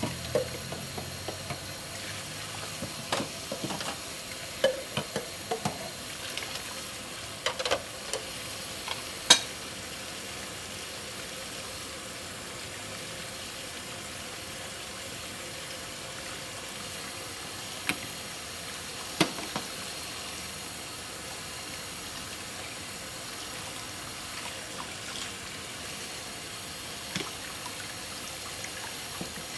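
Hand dishwashing at a sink: a tap running steadily, with scattered clinks and knocks of dishes, most of them in the first third.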